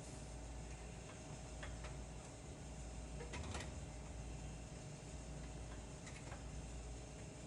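A few light clicks and taps from exhaust pipe and clamp parts being handled and fitted, scattered a few seconds apart over a steady low hum.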